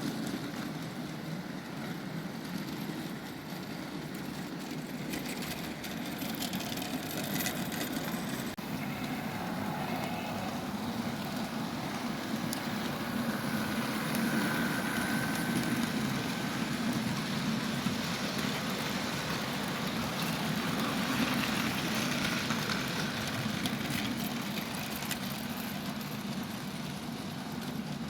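Model diesel locomotives running around a model railway: the steady whir of small electric motors and the rattle of wheels on the track, a little louder in the middle as a train comes close.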